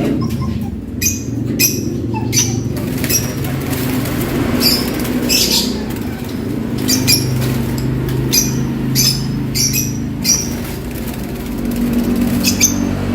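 Lovebirds giving short, sharp chirps again and again over a steady low hum.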